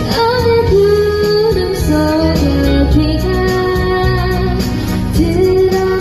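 A child singing a melody with held, gliding notes over backing music.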